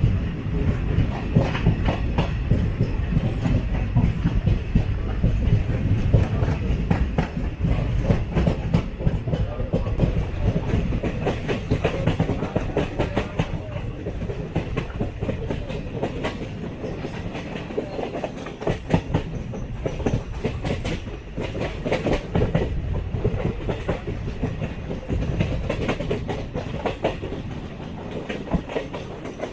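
A moving train coach's wheels clattering over rail joints and points, with a steady low running rumble.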